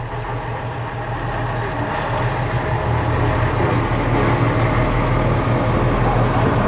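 Large diesel tractor engine, the John Deere 8300's, running steadily at idle, gradually growing a little louder.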